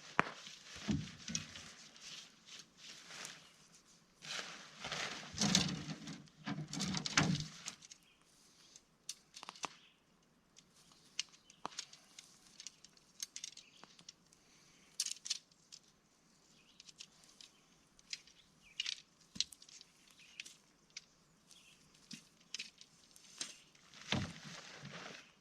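Handling noise from a truck-bed tent being set up: rustling fabric with scattered light clicks and knocks, and louder bursts of rustling about five to seven seconds in and again near the end.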